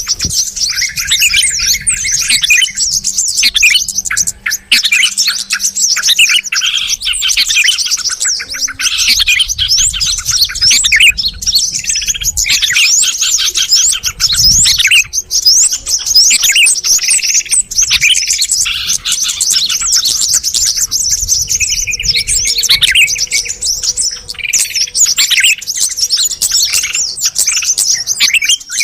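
Loud, continuous bird-lure recording of bulbuls: yellow-vented bulbul calls mixed with the agitated, noisy chatter of sooty-headed bulbuls. Dense high chirping runs throughout, with lower warbled phrases breaking in every few seconds.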